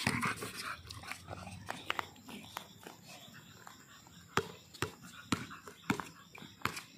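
A dog panting close by, followed by a few sharp knocks in the second half from a basketball being dribbled on a concrete court.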